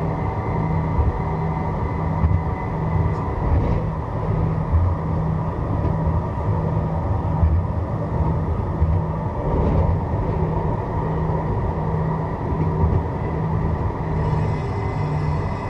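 Strasbourg tram running between stops, heard from on board: steady rolling noise with a low hum pulsing about twice a second and a thin high whine. Fainter high-pitched tones join near the end.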